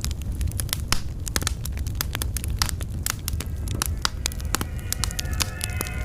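Log fire in a fireplace crackling, with irregular sharp pops and snaps over a steady low rumble of burning. About five seconds in, music from an old radio broadcast begins to come in faintly.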